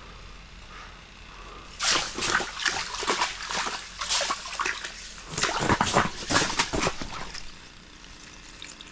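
Big northern pike thrashing in the water of the ice hole as it is pulled up and landed: a burst of irregular splashing and sloshing that starts about two seconds in and dies away after about five seconds.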